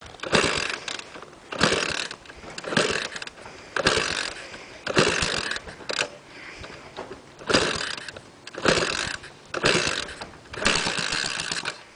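Honda ATC 200X engine on a home-made mini bike being turned over with its starter again and again, about once a second. Each stroke gives a short mechanical rattle and the engine does not catch.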